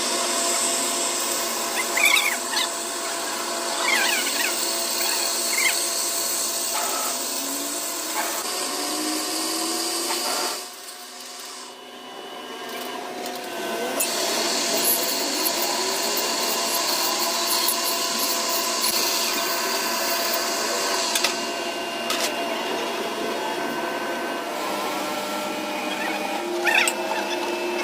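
Power tool or machine tool running steadily with a high hiss and several steady tones. It drops away for about two seconds roughly eleven seconds in, then runs again, with a few short clinks and chirps.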